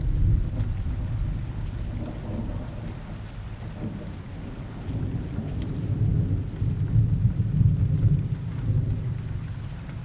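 Steady rain with low rolling thunder rumbling underneath, swelling about two-thirds of the way through.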